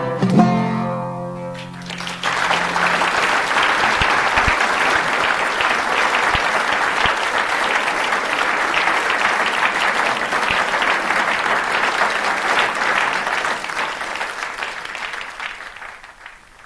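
The last notes of plucked-string music die away, then an audience applauds steadily for about thirteen seconds, fading out near the end.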